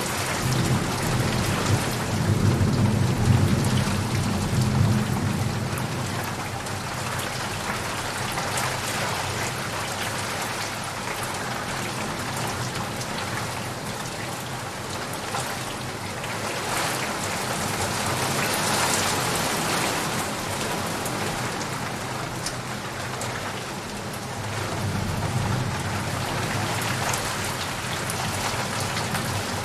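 Steady rain falling, with low rolling thunder rumbling through the first few seconds and again near the end.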